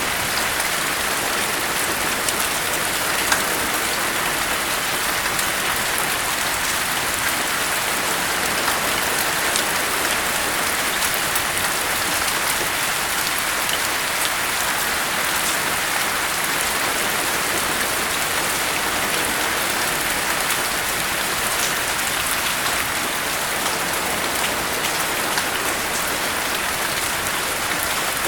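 Steady rain falling without a break, with scattered individual drops ticking over the even hiss.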